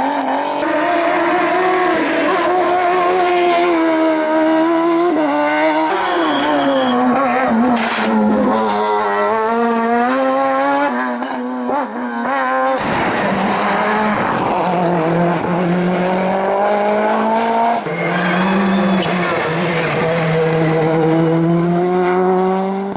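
Competition cars on a hillclimb stage, engines revving hard up through the gears with rising pitch and drops at each shift, in several short clips that cut abruptly from one car to the next.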